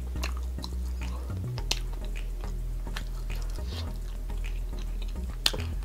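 Close-miked mouth sounds of someone chewing soft cheesy ravioli: small wet clicks and smacks, with a sharper click about a second and a half in and another near the end, over low background music.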